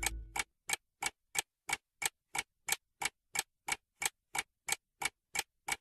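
Steady clock-like ticking, about three sharp ticks a second, with silence between them.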